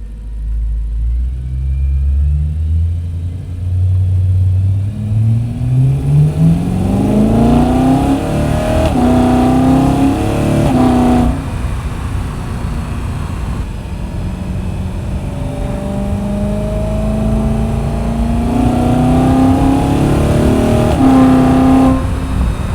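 BMW E92 M3's 4.0-litre V8 with an M Performance muffler, accelerating with its pitch climbing steadily for about ten seconds, then backing off suddenly. A second, gentler pull rises again and falls away near the end.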